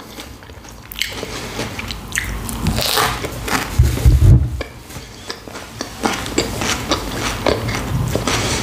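Close-miked eating of a hot sandwich: a bite, then chewing with many small crunchy crackles, and a louder low bump about halfway through.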